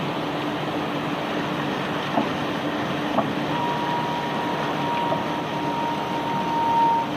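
Conveyor belt carrying rock, running steadily with a constant hum. A higher steady whine joins about halfway through and stops just before the end, with a few short knocks along the way.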